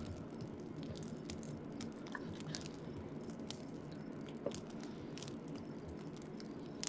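A person chewing a mouthful of freshly grilled food, with a wood fire crackling in scattered sharp pops.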